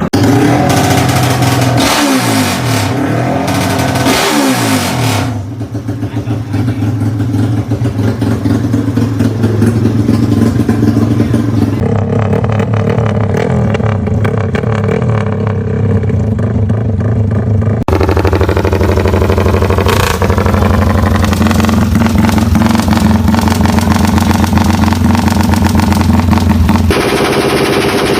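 Yamaha Y15ZR motorcycle's 150 cc single-cylinder four-stroke engine revved up and down in the first few seconds, then held at steady revs. The sound changes abruptly every few seconds, as between separate takes.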